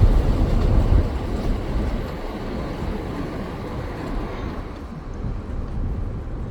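Wind buffeting the microphone over a steady low rumble, strongest in the first second and then easing off.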